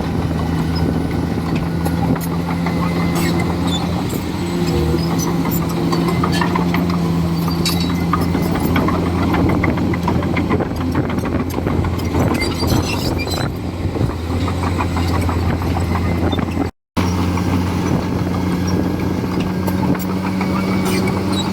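Komatsu D41E bulldozer's diesel engine running steadily under work, with scattered clicks and cracks over it. The sound cuts out for a moment near the end, then the engine carries on.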